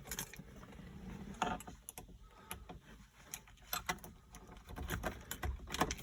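Faint, irregular small mechanical clicks and light rattles from the car's controls being handled in its cabin before starting, with the engine not running.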